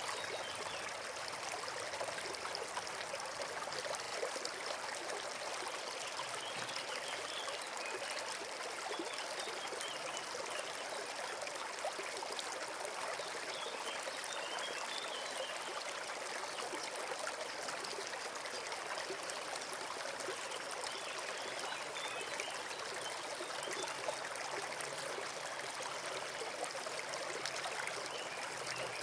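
Forest brook flowing steadily over stones, a continuous trickling and splashing of running water.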